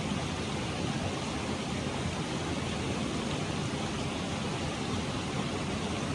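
Mountain stream water rushing over rocks: a steady, even hiss and rumble.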